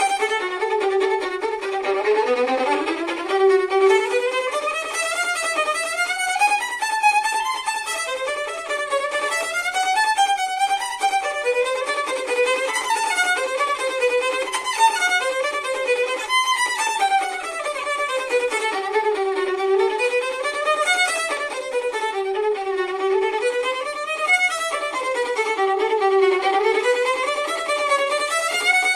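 Solo violin playing a fast passage of quick running notes that climb and fall again and again.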